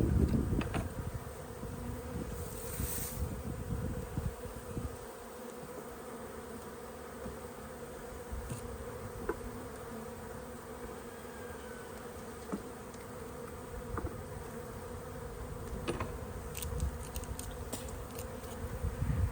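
Honeybees humming steadily around an open hive, with scattered clicks and knocks throughout and a low rumble in the first few seconds.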